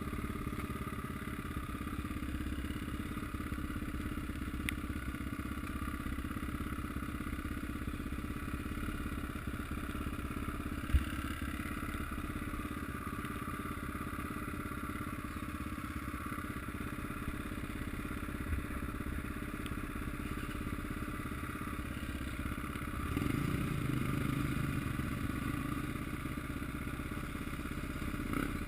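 Motocross motorcycles running at a distance, a steady engine drone. There is one sharp knock about eleven seconds in, and the engine sound grows a little louder a few seconds before the end.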